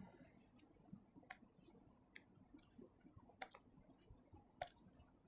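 Near silence with a few faint, sharp clicks scattered through it, the loudest two about three and a half and four and a half seconds in.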